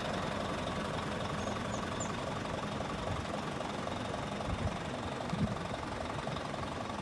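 Isuzu Giga heavy truck's diesel engine idling steadily, with two brief low thumps about two-thirds of the way through.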